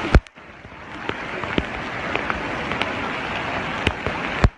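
Heavy rain falling, a steady hiss with scattered sharp drop ticks. A loud thump comes right at the start and another near the end, each followed by a brief dip in the sound.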